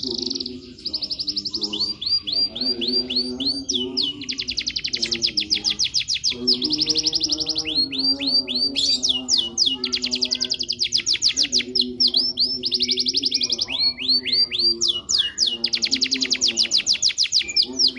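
Domestic canary singing a long song of rapid trills: fast runs of repeated notes, high-pitched, changing from one tour to the next with brief breaks.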